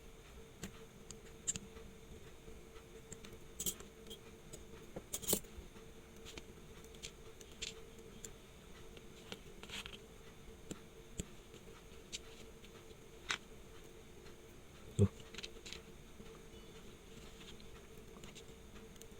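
Watchmaker's tools clicking and tapping on the small parts of a Seiko 5 watch movement: scattered light metallic ticks, with one louder dull knock about three-quarters of the way through, over a steady low hum.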